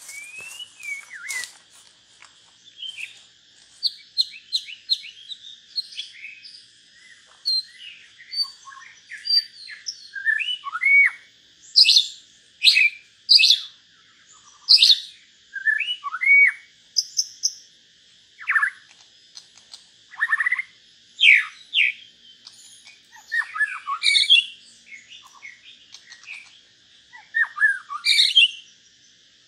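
Birds calling: a busy run of varied whistled phrases and sharp chirps, a new call every second or so, over a steady high hiss.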